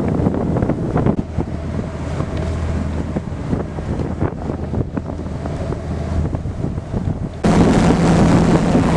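Wind buffeting the microphone over a steady low hum. About seven and a half seconds in it cuts abruptly to a louder stretch with a steadier, higher hum.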